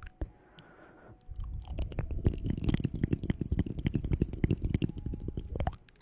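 Close-miked ASMR sounds: a dense run of rapid crackles and rubbing with a heavy low rumble, starting about a second in and stopping shortly before the end, with quiet gaps either side.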